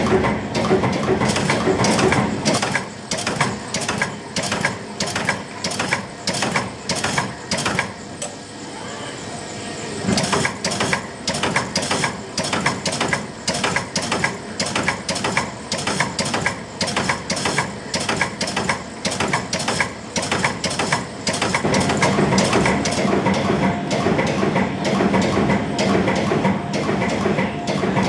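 Nisshinbo MTP-1000F mechanical CNC punch press punching sheet metal in a rapid, even series of knocks, about two a second. The knocks ease into a short lull about eight seconds in, then resume, and the press runs denser and steadier over the last few seconds.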